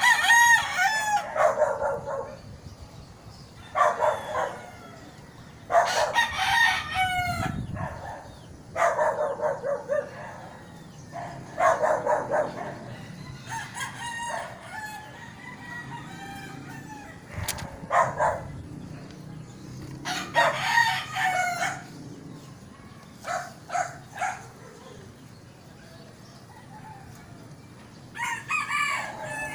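Rooster crowing again and again, each crow a second or two long, a few seconds apart.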